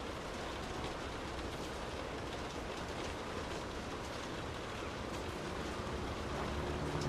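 Steady rain falling on a surface, with scattered ticks of single drops. A low rumble swells in underneath near the end.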